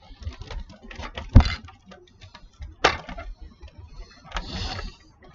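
Plastic toy building bricks clicking and clattering in a run of small separate knocks. The loudest knock comes about one and a half seconds in, and there is a short rattle near the end.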